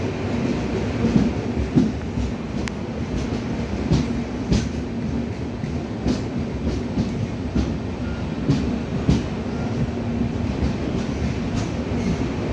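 Indian Railways passenger coach heard from inside while the train rolls along, with a steady low rumble and hum. Irregular sharp clacks come from the wheels striking rail joints.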